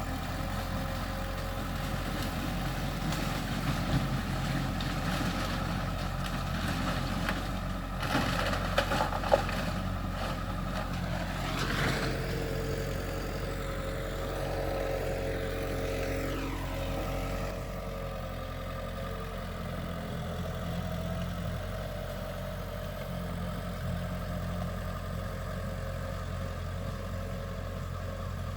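Diesel engine of heavy earthmoving machinery running steadily, with a few sharp metal clanks about eight to nine seconds in and the engine pitch rising and then falling away in the middle.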